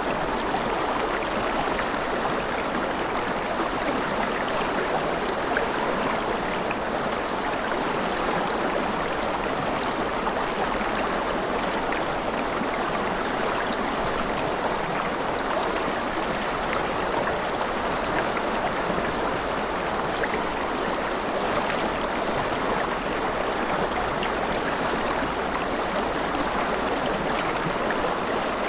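River water flowing and splashing, a steady rushing with small gurgles and splashes throughout.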